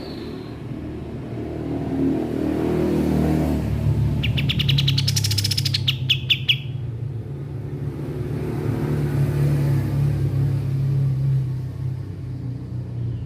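A kapas tembak songbird gives a fast, even trill of high notes about four seconds in, lasting a couple of seconds, with a short chirp at the start. A steady low hum, like a motor or rumble, runs underneath and is louder than the bird.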